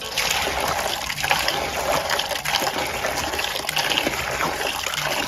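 Well water pouring and splashing steadily.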